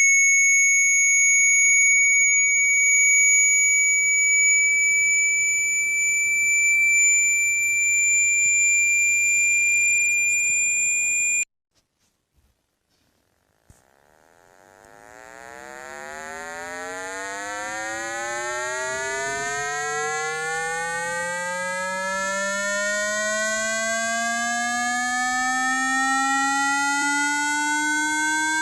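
Electronically generated water-ejection tones for a phone speaker. A steady high-pitched tone cuts off suddenly about a third of the way in; after a short silence, a low buzzy tone with many overtones fades in and slowly rises in pitch, growing louder.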